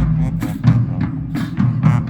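Marching band playing, with drums striking a quick, steady beat over sustained low brass notes.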